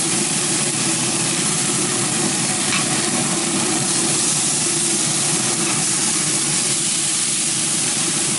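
Teriyaki-basted chicken sizzling on the hot grate of a pellet smoker grill running on high, a steady hiss.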